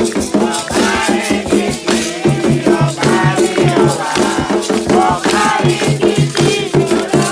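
Candomblé ritual music: drums beating a steady rhythm with shaken rattles and voices singing a chant.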